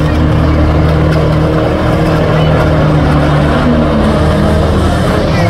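Banger racing cars' engines running loudly and steadily on the track.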